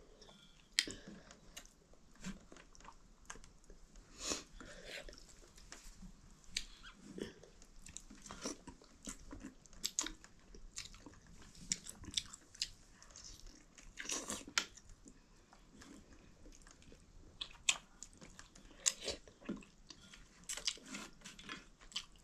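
Eating sounds: chewing, lip smacks and small crunches as maize-flour dhido and chicken are eaten, coming as irregular short clicks and crackles.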